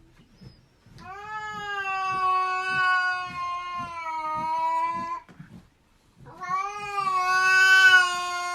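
A cat yowling in two long drawn-out calls, each holding nearly one pitch for several seconds; the second starts about six seconds in and is louder.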